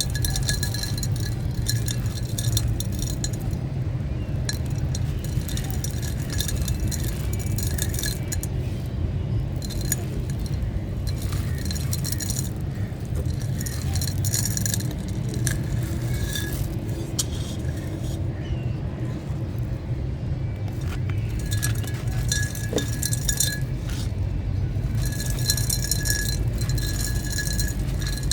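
Hard, stony chunks of dried sand-cement or clay crumbling and crunching, with dense gritty crackles and small clinks as pieces break and fall. The crackling comes in clusters that come and go, over a steady low rumble.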